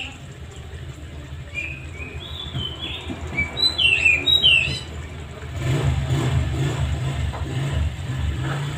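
Birds chirping in short, falling calls through the first half, over a steady low rumble that grows louder about halfway through.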